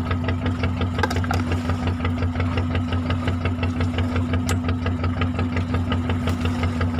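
Fishing boat's engine running steadily with an even chugging beat, about five a second.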